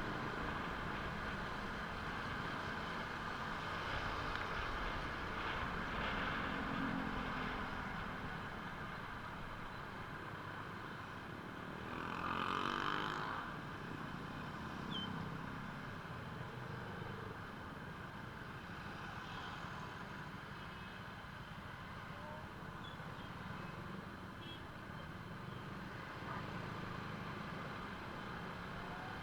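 Steady vehicle noise, with a louder swell about twelve seconds in.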